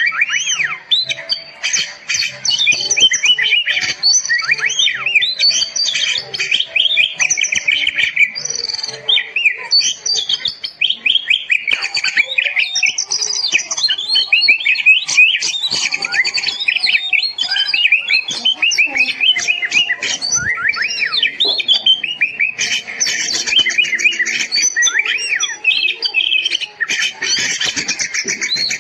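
Oriental magpie-robin (kacer) in full, vigorous song: a continuous rapid stream of varied whistles, quick rising and falling chirps and harsher squawky notes.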